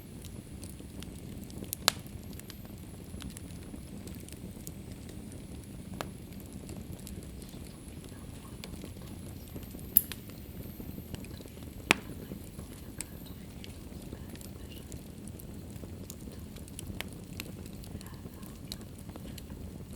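Wood fire burning in a fireplace: a steady low rumble of flames with scattered small crackles and a few sharp pops, the loudest about ten and twelve seconds in.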